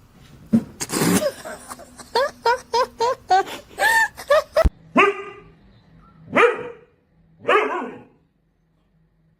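A dog barking: a quick run of short, high barks, about three a second, then three longer calls that fall in pitch. A single sharp knock comes about halfway through.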